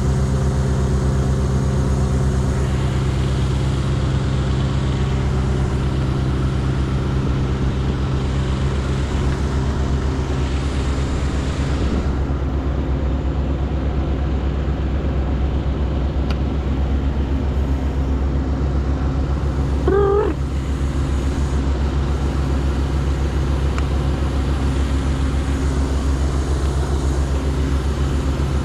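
An engine running steadily and evenly throughout, with a short wavering high-pitched squeal or call about twenty seconds in.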